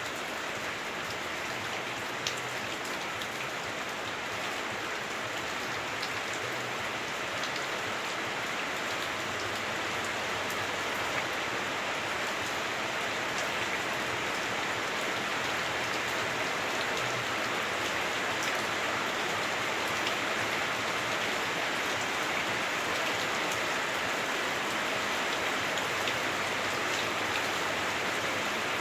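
Heavy rain on a house roof heard from inside: a dense, steady hiss of rainfall with scattered drop ticks, growing slightly heavier toward the end.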